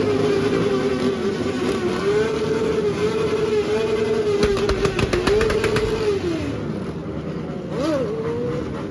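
Motorcycle engine held at high, steady revs with small wobbles, then the revs fall away about six seconds in. A short blip of the throttle follows near the end.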